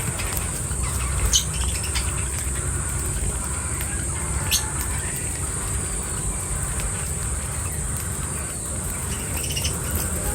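Outdoor nature sound: a steady high-pitched insect drone, like crickets or cicadas, with two short bird chirps, one about a second and a half in and another about four and a half seconds in, over a low rumble.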